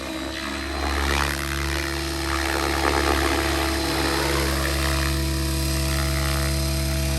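Electric RC helicopter (Miniature Aircraft Whiplash 730E with an Xnova motor) running at a steady head speed: a constant droning hum of rotor blades and motor.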